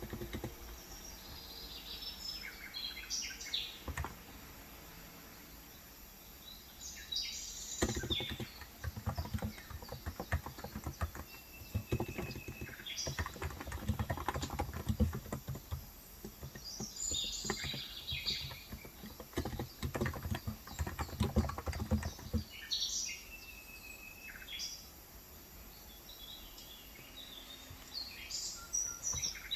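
Typing on a Cox Endeavor electrocapacitive keyboard with 35g switches, a dense run of soft low key clicks through the middle with quieter pauses. Birds chirp outside in short groups of calls roughly every five seconds.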